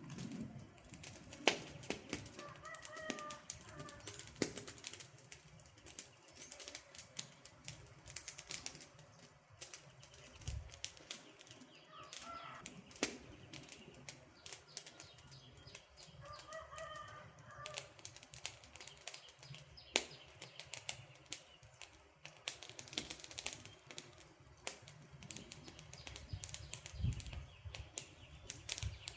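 Campfire crackling with many sharp pops and snaps. A bird calls briefly three times over the fire.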